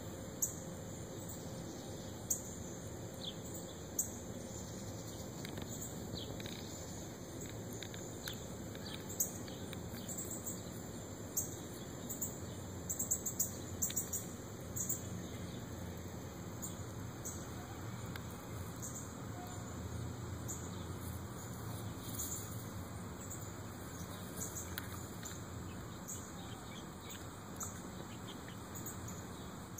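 Bird chirps and short high ticks scattered over a steady low outdoor hum, thickest about halfway through, with a few faint short calls later on.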